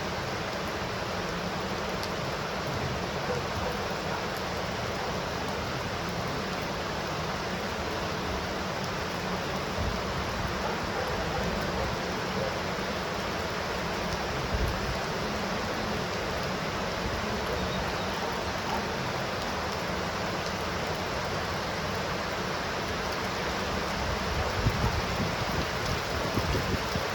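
Steady heavy rainfall, a dense even hiss of rain falling, with a few slightly louder drops or splashes about halfway through and near the end.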